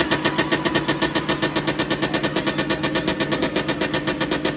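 Spinning car's engine held on its rev limiter, a rapid even stutter of about nine cuts a second.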